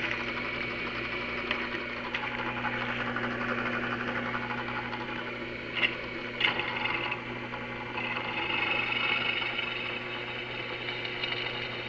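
Electric drill running steadily under load as its bit bores the shaft hole, with two short sharp sounds about six seconds in.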